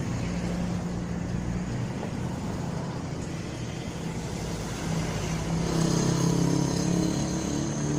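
City street traffic: a steady hum of vehicles, with one vehicle's engine growing louder from about five seconds in as it passes close, then fading near the end.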